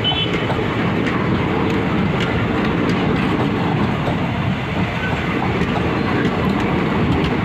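Indian Railways passenger coaches rolling past close by: a steady rumble of wheels on the track, with scattered clicks as the wheels cross rail joints.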